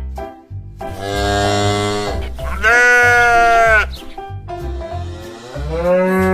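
Bouncy children's background music with a steady beat, with farm-animal bleats laid over it: about a second in, a louder one lasting about a second near the middle, and a lower one near the end.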